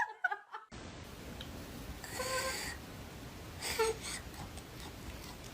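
A cat meowing twice, a longer call about two seconds in and a shorter one near four seconds, over a steady background hiss.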